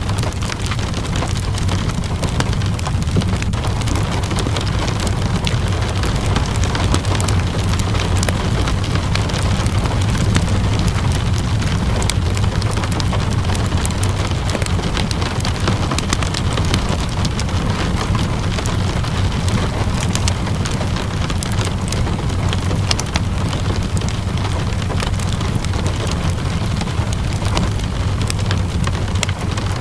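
Steady rain with frequent small crackles and pops from a wood fire, over a constant low rumble.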